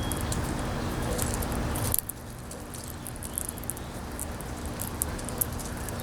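Wind buffeting the microphone as a low rumbling noise that drops suddenly about two seconds in, with scattered light high clicks and rustles throughout.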